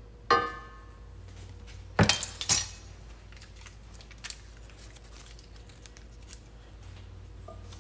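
Kitchen cookware clinking and knocking: a ringing clink of metal about a third of a second in, then a few sharp knocks around two seconds in, over a faint steady hum.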